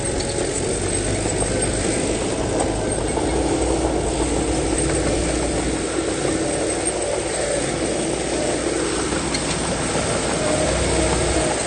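Heavy diesel earthmoving machinery engine running steadily, its pitch shifting slightly now and then.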